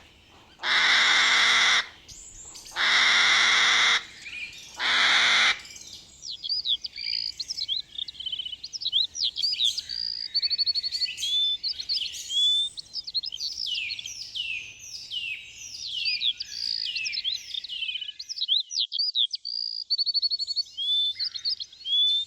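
Three loud, harsh calls, each about a second long, then from about six seconds in a busy mix of small birds' chirps, whistled sweeps and short trills.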